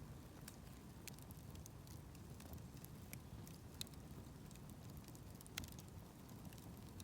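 Wood campfire crackling quietly, with scattered small pops and two sharper snaps about four and five and a half seconds in.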